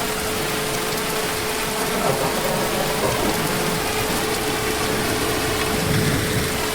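Heavy rain falling in a steady hiss, with low rumbles of distant thunder swelling about two seconds in and again near the end. A thin steady hum runs underneath.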